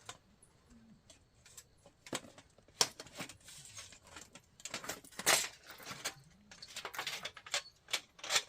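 Irregular sharp clicks and knocks with some soft rustling, the loudest knock about five seconds in.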